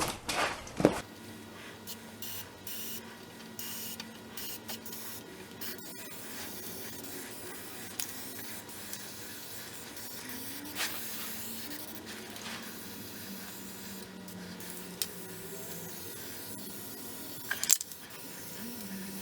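Aerosol can of Fluid Film oil undercoating hissing through its extension hose, sprayed in uneven on-off stretches onto a VW Beetle's underside. A couple of short knocks near the start and near the end.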